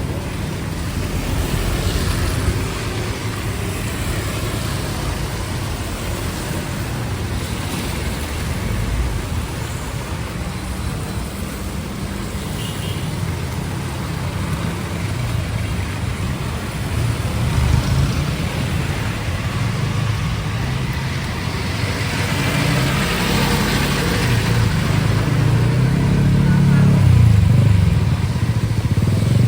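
Street traffic: cars and motorcycles running past, with a steady engine rumble, and a vehicle passing louder near the end.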